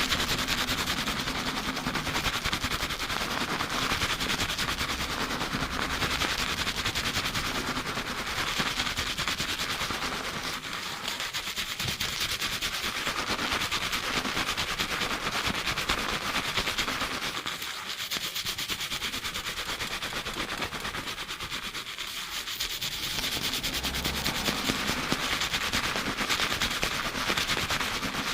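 Hands scrubbing lathered hair fast during a shampoo, a dense rapid crackle of foam and hair rubbing against the scalp, picked up close on a binaural microphone. It eases slightly through the middle stretch.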